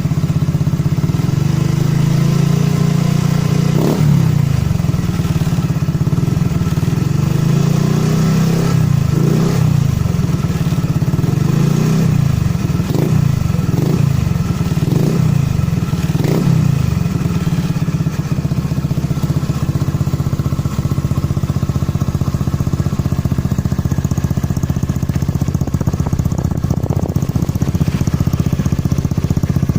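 Honda Scoopy eSP scooter's single-cylinder four-stroke engine running through a non-embossed Tsukigi aftermarket exhaust. It is blipped with the throttle about eight times in the first half, each rev rising and falling back, then settles to a steady idle. The exhaust is mellow at idle and screams when revved.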